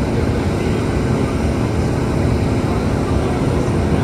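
Boeing 777-9's twin GE9X turbofan engines during a flying display: a steady, loud jet noise, strongest in the low end.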